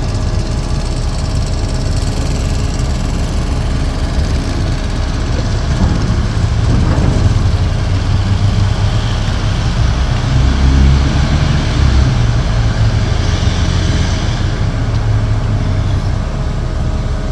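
Heavy diesel truck engines running, a low rumble that grows louder through the middle and then eases back.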